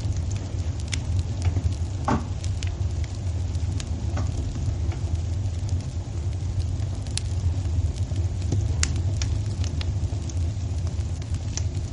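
Wood fire crackling in a fireplace: a steady low rumble of the flames with frequent sharp pops scattered throughout.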